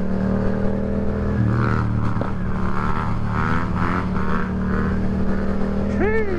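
Motorcycle engine running steadily, with a quick rev up and back down near the end.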